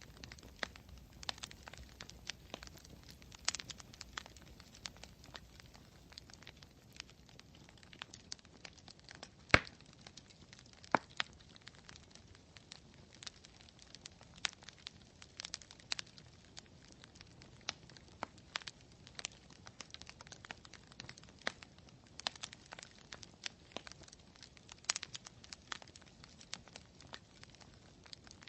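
Campfire crackling: burning wood gives off irregular sharp snaps and pops over a soft hiss. One loud pop comes about nine and a half seconds in and another about eleven seconds in.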